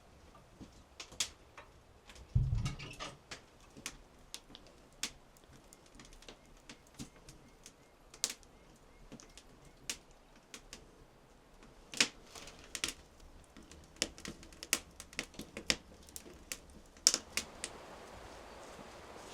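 Irregular light clicks and taps, a few each second, with one heavier thump about two and a half seconds in. A steady hiss sets in near the end.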